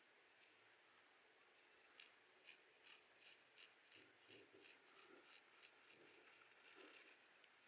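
Faint, light scratching strokes over skin or hair, about two to three a second, starting about two seconds in.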